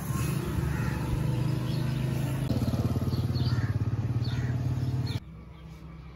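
Toyota Corolla's engine running at idle, a steady low pulsing hum that grows a little louder about halfway through, then cuts off abruptly; after it, faint outdoor ambience with a few bird chirps.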